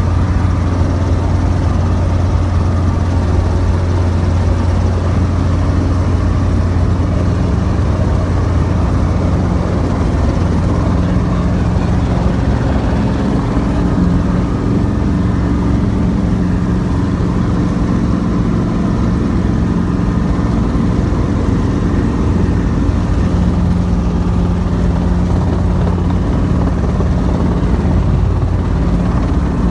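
Small piston-engined helicopter's engine and rotor running steadily in flight, heard from inside the cabin, with a shift in tone about twelve seconds in as power changes.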